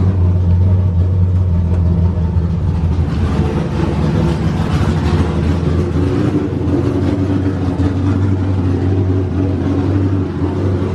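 LS V8 engine in a Nissan 240SX (S14) running steadily, a deep low note with only slight changes in pitch.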